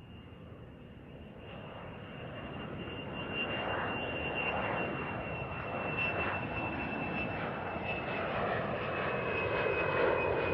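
Airplane coming in to land, its engine sound growing steadily louder as it approaches, with a high whine that slowly falls in pitch.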